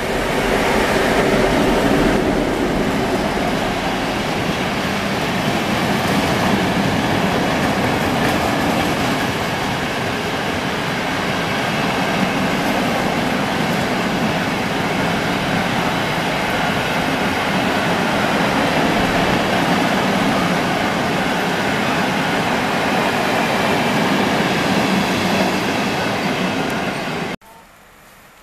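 Freight train loaded with pallets running through the station at speed, its wagons rumbling and clattering steadily over the rails. The sound cuts off suddenly near the end.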